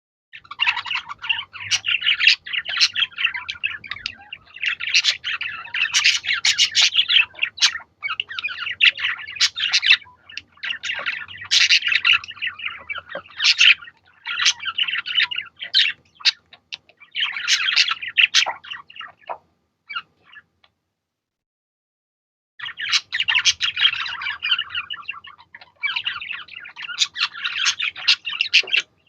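Budgerigars chattering and warbling in long runs of quick chirps and squawks. They stop for about three seconds two-thirds of the way through, then start up again.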